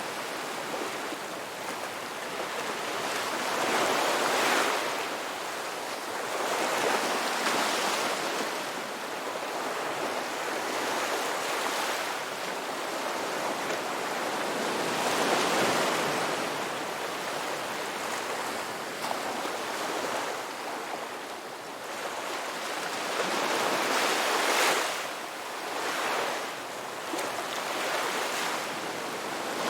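Ocean waves breaking and washing on a shore, a steady hiss of surf that swells with each wave, loudest about 4, 7, 16 and 25 seconds in.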